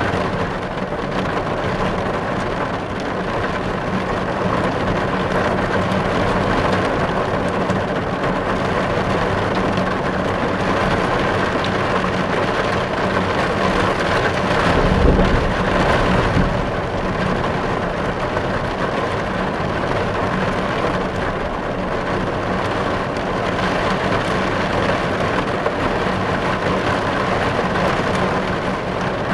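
Heavy rain pattering densely and steadily on a car's windows and roof, heard from inside the car. A brief low rumble swells about halfway through.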